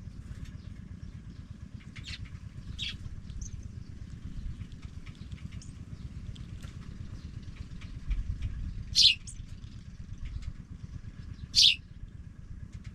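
Pipit nestlings giving short, high chirps, a few scattered ones early and two loud single chirps in the second half, over a steady low rumble.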